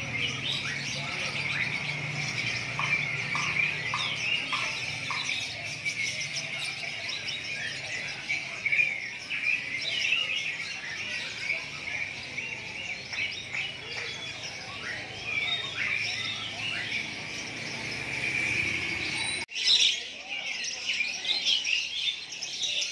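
Many caged songbirds chirping and singing at once, a dense chorus of overlapping high chirps and trills, briefly cutting out about three-quarters of the way through.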